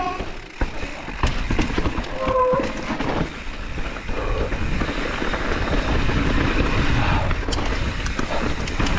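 Mountain bike riding down a rocky trail: continuous tyre rumble and clattering of the bike over rock, with many short knocks.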